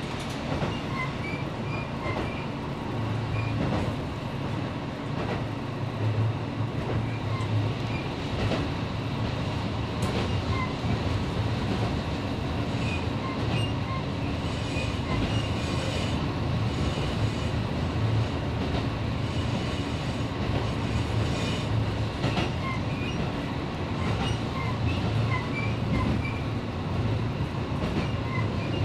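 Diesel railcar heard from inside the cabin while running: a steady engine drone and rolling wheel noise, with an occasional click over the rail joints and faint high wheel squeaks.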